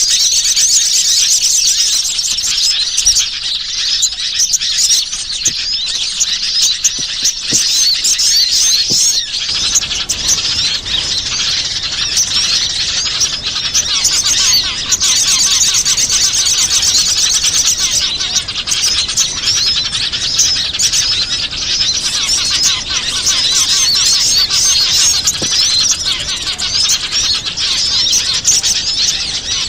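A dense chorus of many small wild birds chirping rapidly and without a break, all high-pitched: a recorded bird-lure call for attracting small birds.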